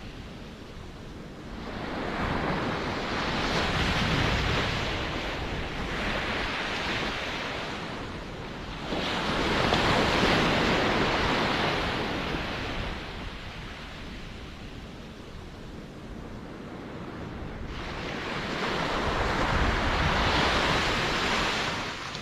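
Ocean waves: three waves swell up and fade away over several seconds each, with a softer wash of water between them.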